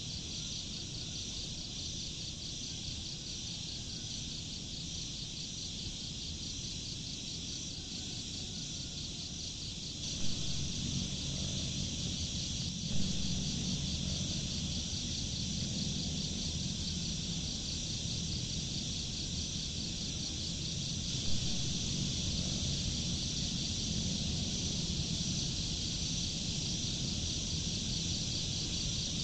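Steady high-pitched insect chorus with a fast, even pulse. About ten seconds in, a low rumbling sound joins it, and there are a few brief knocks.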